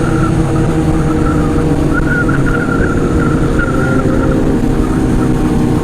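Motorcycle engine running at a steady cruise, its note easing down slightly near the end, with wind rushing over the microphone.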